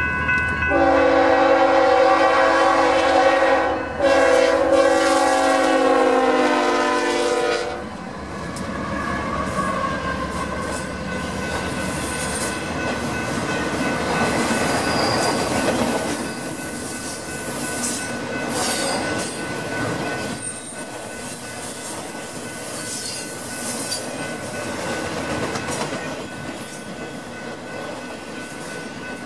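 Lead locomotive of a BNSF freight train sounding its air horn for a grade crossing: two long blasts over the first eight seconds or so. Then the intermodal train of trailers on flatcars rolls past with a steady rumble and clatter of wheels on the rails.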